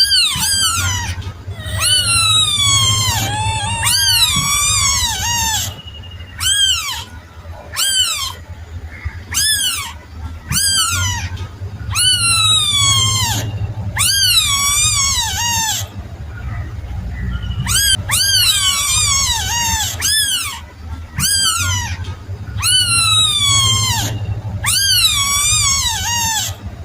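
A kitten mewing repeatedly: high, arching cries that come one or two a second, with only short gaps between them.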